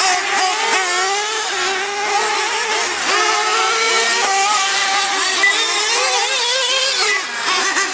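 Several R/C monster trucks and truggies racing, their small engines buzzing together at high revs, each rising and falling in pitch as the throttle comes on and off.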